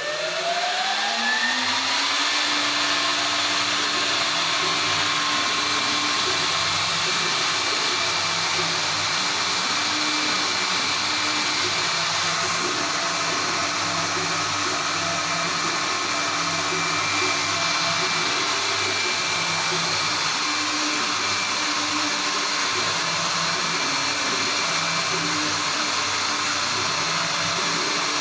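Spindle motor of a 3-axis mini CNC router spinning up, its whine rising in pitch for about the first two seconds, then running steadily at speed.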